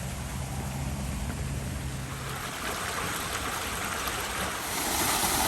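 Flowing water: a steady rushing that grows louder a little past halfway and again near the end, over a low hum in the first half.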